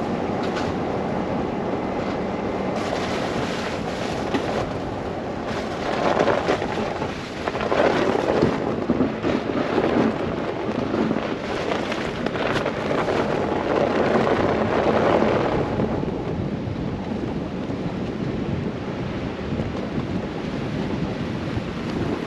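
Blizzard wind buffeting the microphone during a drive through falling snow: a steady rush of noise, with stronger gusts from about six seconds in to about sixteen.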